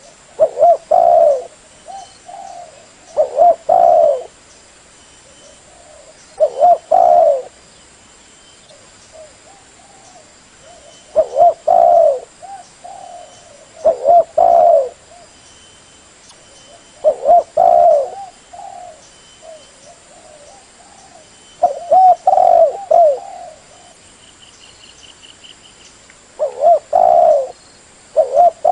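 Spotted dove (terkuku/derkuku) cooing: a short phrase of low coo notes repeated about every three seconds, nine times over.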